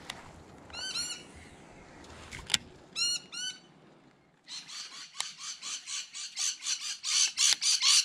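A bird calling. A few short arched calls come in the first half. From about halfway a rapid run of loud repeated notes follows, about five a second, growing louder. A single sharp click comes about a third of the way in.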